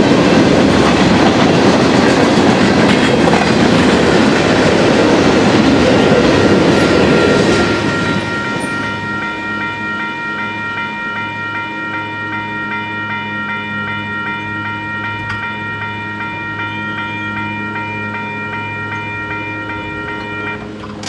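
Freight cars rolling past on the rails with clickety-clack until about eight seconds in, then the railroad crossing signal's bell ringing steadily on its own until it stops near the end as the gates rise.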